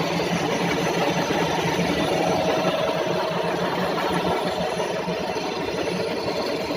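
WMW Heckert GFLV 250 x 2000 thread milling machine running: a steady mechanical hum from its motors and gearing, with a faint steady whine.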